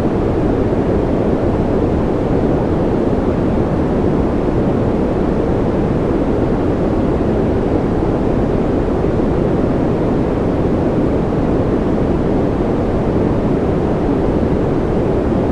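Steady white noise for baby sleep: an even, unbroken rush with no rhythm or change, deep-toned, with most of its weight low and little high hiss.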